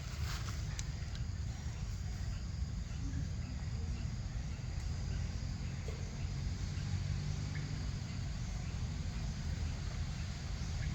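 Outdoor background: a steady low rumble with faint, steady high insect chirping, and a few small clicks in the first second.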